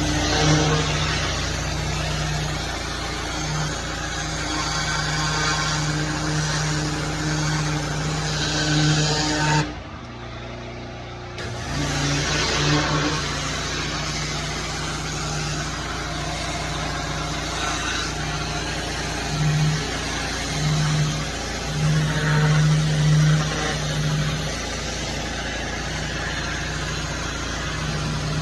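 Small petrol engine of cleaning equipment running steadily under a loud rushing hiss of spray or blown air. The hiss and level drop away briefly about ten seconds in, then return.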